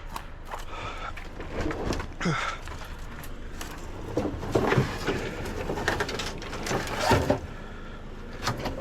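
Scrap being rummaged through and handled: irregular clanks, knocks and rustling as pieces are moved about.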